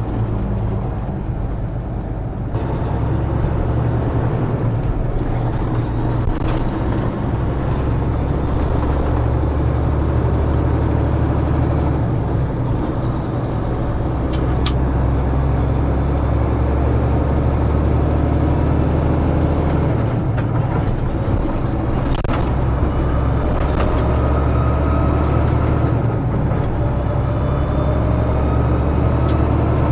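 Semi truck's diesel engine running steadily under way, its pitch shifting a few times, with a high whistle that rises and falls and a few sharp clicks.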